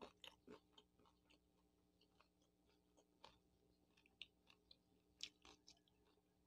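Quiet chewing and mouth sounds of a person eating: scattered faint soft clicks and smacks, no more than a few at a time.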